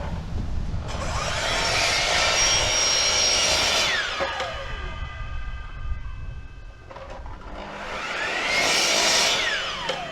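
Power saw run twice, each time for about three seconds, with the pitch falling as the blade spins down after each run.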